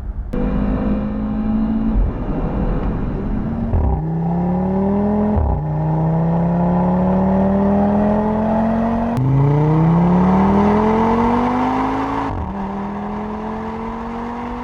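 Audi Sportback's engine and exhaust under hard acceleration, rising in pitch through each gear and dropping sharply at four upshifts.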